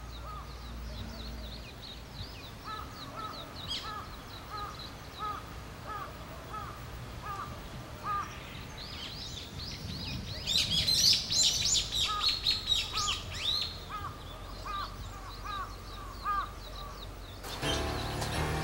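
Several birds chirping and calling in short repeated notes, with a denser, louder flurry of high chirps a little past halfway.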